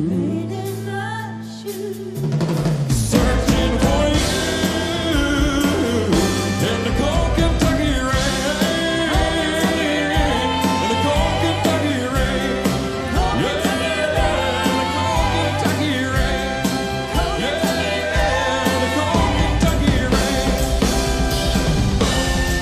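Live band with drum kit, bass, keyboards, guitar and horns playing a song's closing passage. A held chord rings for about two seconds, then a drum hit brings the full band back in, and it plays on steadily.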